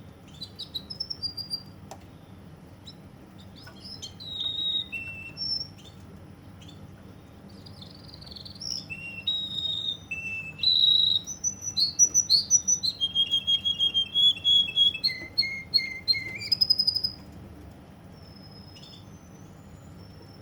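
Russian song canary singing: short whistled phrases and chirps at first, then a loud run of rapid repeated notes and trills in the middle that stops about three-quarters of the way through.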